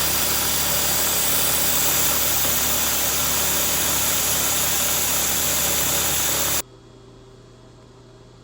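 Milling machine running with a 1/4 inch end mill cutting a channel in steel: a loud, steady grinding noise from a cutter the machinist believes is dull. About six and a half seconds in it cuts off suddenly, leaving only a low steady hum.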